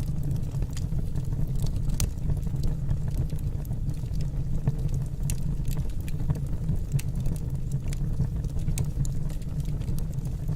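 Logs burning in a fireplace: a steady low rumble of the fire with irregular sharp crackles and pops from the wood.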